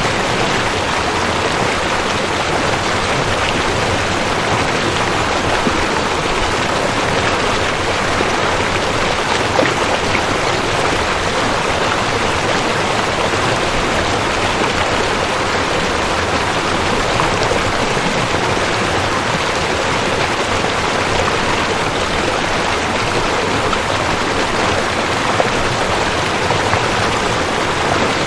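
Rushing creek water flowing over rocks, a steady dense splashing rush.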